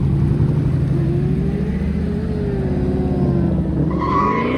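A car's engine revving as it pulls away, its pitch wavering and then climbing sharply near the end. Tires start squealing about four seconds in.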